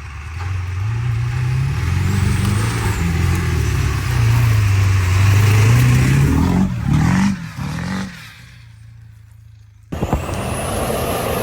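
Truck engine revving, its pitch rising and falling, with a faint high whistle that rises and falls a couple of seconds in. It drops off near 8 s, and about 10 s in a loud truck engine cuts in abruptly, again with a high whistle.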